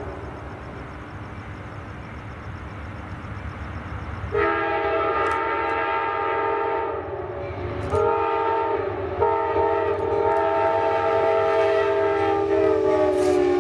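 Diesel locomotive's air horn sounding in long blasts over the rumble of the train, starting about four seconds in, with two short breaks. Near the end the horn's pitch drops slightly as the locomotive passes.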